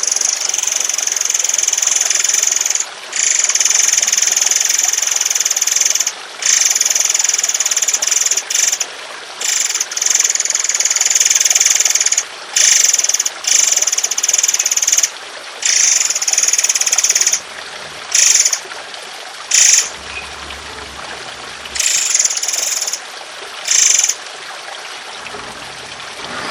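Songbird masteran recording: a bird giving harsh, rasping buzzy song phrases in long bursts, about a dozen in a row with short gaps, over a steady trickle of water.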